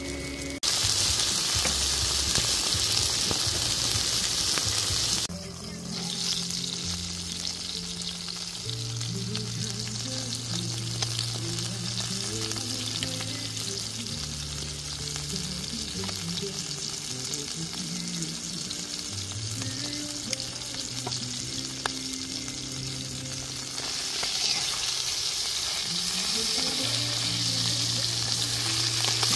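Food sizzling as it fries in a hot pan: a steady hiss, loudest for the first few seconds and again near the end, fainter in between. Background music with slow held notes plays throughout.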